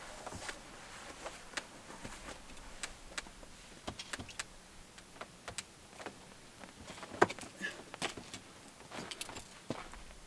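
Scattered, irregular clicks, taps and knocks, with one louder knock about seven seconds in.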